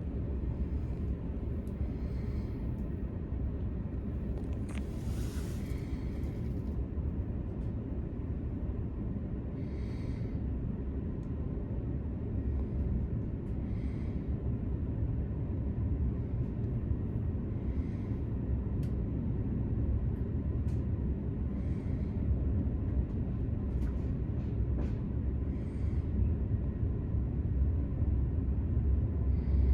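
Steady low rumble of a VR Intercity train running, heard on board, growing slightly louder toward the end. A faint click comes about every four seconds, and a brief hiss sounds about five seconds in.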